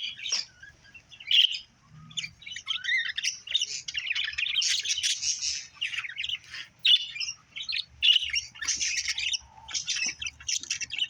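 Several budgerigars chirping and chattering in a rapid, continuous stream of short high calls, with a few louder sharp calls standing out.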